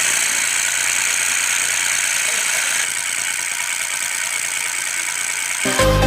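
Small DC toy motor running steadily with a high-pitched whirr. Electronic music cuts in near the end.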